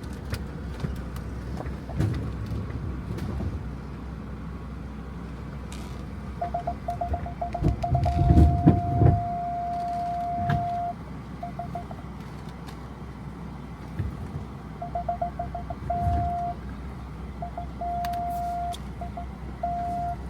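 BMW's parking-sensor warning beeping faster and faster until it holds a steady tone, then starting again in shorter runs, over the low rumble of the car creeping along. A few heavy thumps come about eight to nine seconds in.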